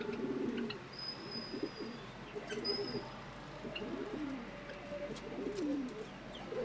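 Pigeons cooing over and over in low, warbling calls, with a few thin high notes from a small bird in the first three seconds.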